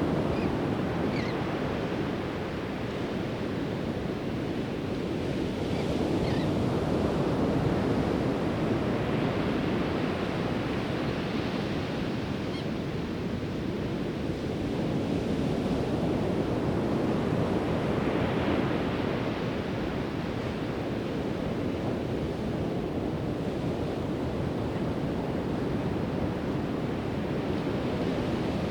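Pacific Ocean surf breaking and washing up the beach: a steady rush that swells and eases as each wave comes in.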